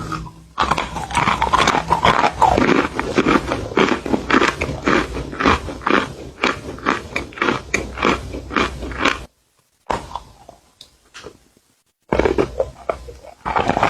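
Close-miked crunchy biting and chewing in quick, dense runs. The crunching stops about nine seconds in and starts again near the end.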